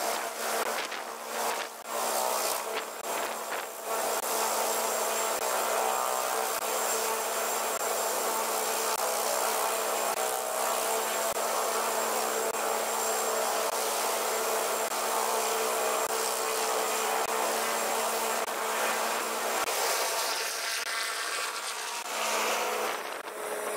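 Helicopter running nearby: a steady droning whine that holds one pitch, with a few brief knocks in the first few seconds.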